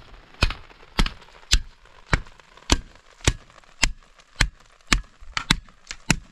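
A steady series of sharp knocks, about two a second, like repeated blows of a tool on a hard surface.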